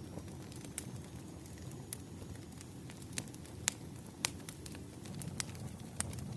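Firewood burning, crackling: a steady low rush of flames with sharp pops and snaps scattered irregularly through it.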